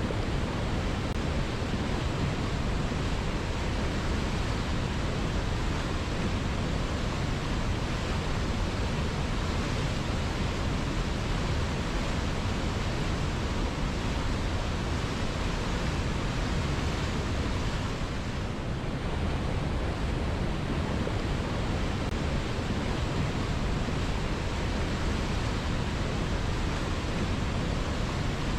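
River water flowing steadily: a continuous, even rushing with no distinct splashes or other sounds, dipping slightly about two-thirds of the way through.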